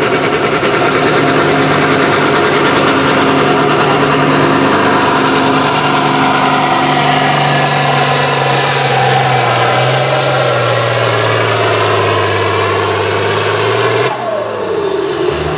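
International Harvester 1486 tractor's turbocharged six-cylinder diesel under full load pulling a weight-transfer sled, the engine note slowly sagging as the sled bogs it down, then throttled back abruptly near the end.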